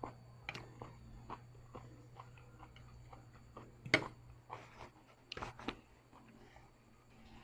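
Close-up eating sounds of a person chewing Korean noodles: small wet mouth clicks and smacks, with a sharper click about four seconds in and two more a little later.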